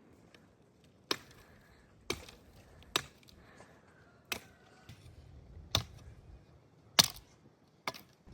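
A series of seven sharp impacts, irregularly spaced about one to one and a half seconds apart.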